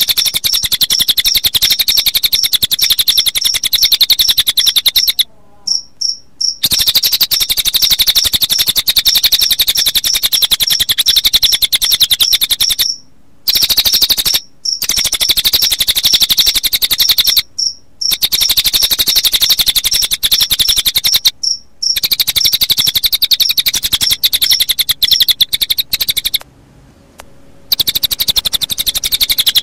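Recorded cililin bird song mixed with cricket chirping: a continuous, very fast high-pitched trill, broken by a few brief gaps of silence.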